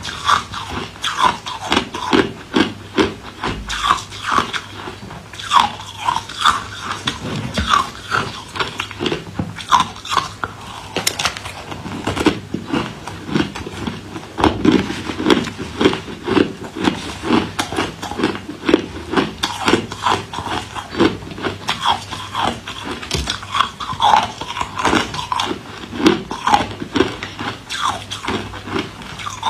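A person biting and chewing ice, a rapid run of sharp crunches and cracks, several a second.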